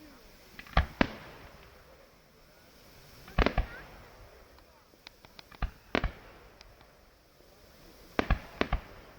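Fireworks bursting in the air as a series of sharp bangs with short echoing tails. Two bangs come about a second in, a cluster follows around the middle, then lighter pops, and a quick run of bangs comes near the end.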